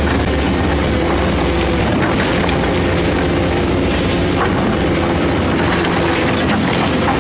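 Large hydraulic excavator's diesel engine running steadily under load, with a few light knocks from the digging.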